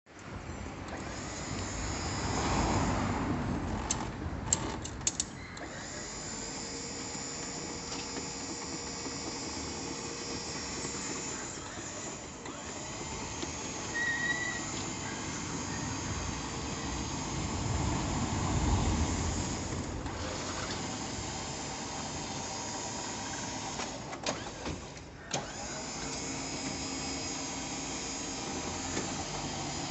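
Steady vehicle engine and road noise, swelling louder twice, with a few sharp clicks about four to five seconds in and again near twenty-five seconds.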